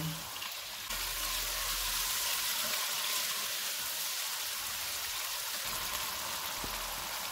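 Boneless chicken pieces frying in hot oil with onions in a wok on a medium flame: a steady sizzle that gets louder about a second in.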